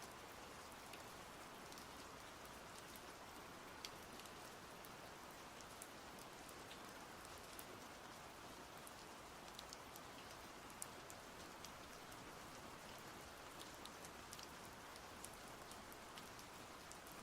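Steady, soft rain with scattered close drop ticks.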